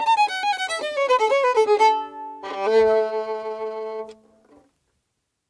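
Solo fiddle ending a Gotland polska. A run of notes falls in pitch, then a held closing chord of two or more strings sounds from about two and a half seconds in and stops a little after four seconds.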